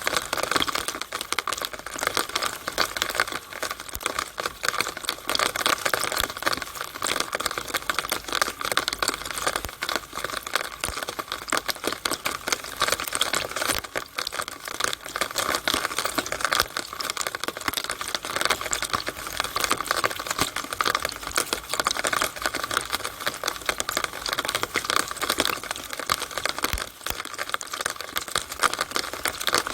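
Rainwater running and splattering through a downspout: a dense, even patter of countless small drips and splashes that never lets up.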